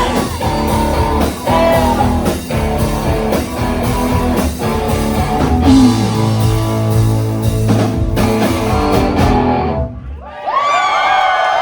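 Live rock band with electric guitars and drum kit playing the last bars of a song, stopping abruptly about nine and a half seconds in; then the audience starts cheering.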